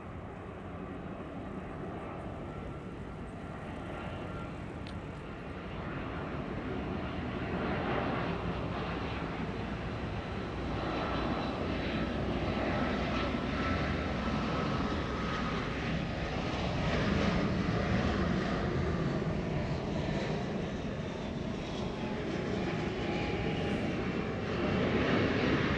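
Airbus A320-232's IAE V2500 jet engines as the airliner comes in to land, a steady roar that grows louder, with a high engine whine slowly falling in pitch.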